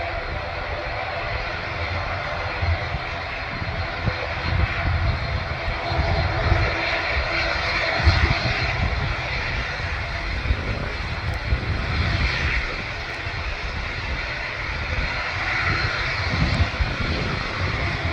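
Aircraft engines at an airport: a continuous rushing noise that swells and eases over several seconds, over an uneven low rumble.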